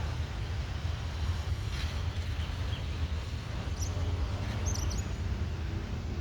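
Airbus A320neo jet airliner heard as a steady low rumble, with wind on the microphone and a few brief bird chirps about four to five seconds in.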